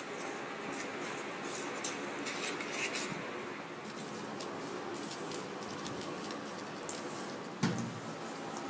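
Faint scraping and clicking of a nankhatai dough being mixed in a bowl, flour, sugar and melted butter worked together, with a soft thump near the end.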